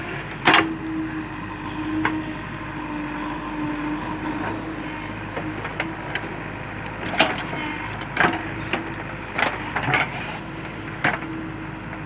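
JCB 3DX backhoe loader's diesel engine running steadily, with sharp knocks and clanks at irregular moments as the machine digs soil.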